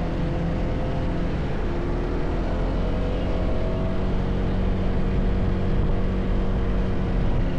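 A car running and moving along, a steady low engine and road rumble whose pitch drifts slowly up and down.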